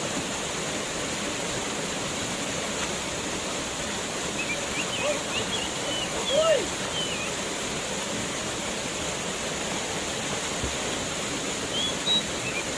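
Waterfall rushing steadily, with a few faint, brief cries over it around the middle and near the end.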